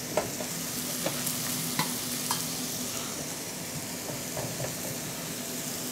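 Steady frying sizzle of onion and small pieces of pork belly caramelizing in butter in a pot, with a few faint clicks in the first couple of seconds.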